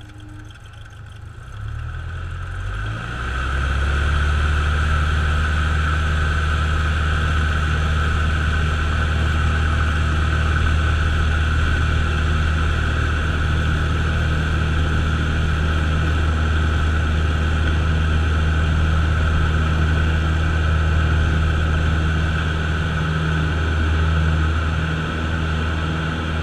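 Cessna light aircraft's piston engine and propeller run up from a low idle to full power over about three seconds, then hold steady and loud, as for the takeoff roll and climb.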